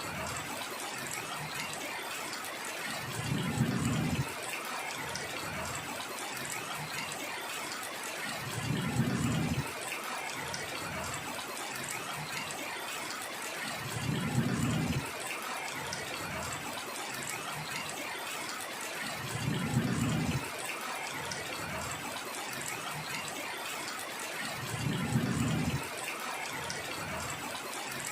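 Steady heavy rainfall. A short low rumble rises out of it five times at even intervals, about every five seconds.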